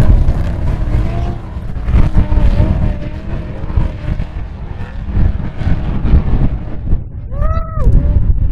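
Off-road race vehicle engines running and revving under a heavy low rumble. Near the end one engine note rises and falls sharply.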